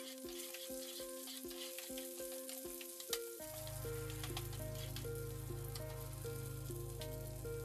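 Scallion, tomato and thyme sizzling in oil in a frying pan. Background music with a steady beat plays over it, and a deep bass comes in about halfway through.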